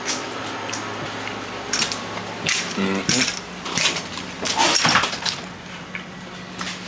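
A series of light, sharp clinks and clatters of small hard objects, bunched in the middle of the clip, over a steady low hum.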